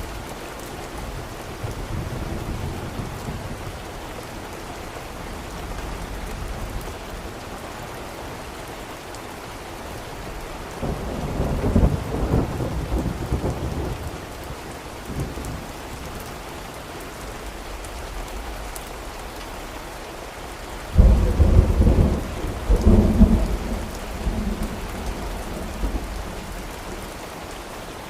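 Steady rain with rolling thunder: a low rumble swells up about eleven seconds in, and a louder thunderclap breaks suddenly about twenty-one seconds in and rumbles on for several seconds.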